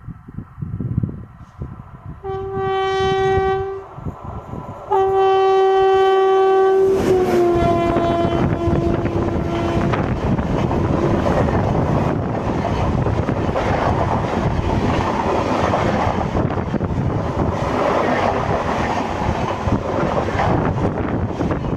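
Express train passing at speed, led by a WAP-7 electric locomotive sounding its horn in two blasts. The horn's pitch drops slightly as the locomotive goes by, and the rushing of the coaches and the clatter of their wheels over the rail joints follow.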